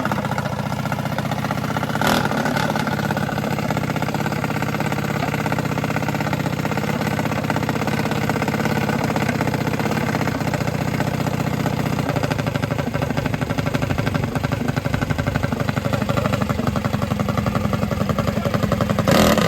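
Minibike engine running steadily, its pulsing getting a little louder in the second half, with a short sharp noise about two seconds in and another just before the end.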